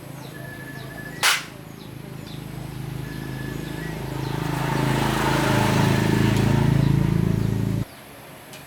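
A sharp click about a second in, then a machine's low, steady hum that grows louder over a few seconds and stops abruptly near the end.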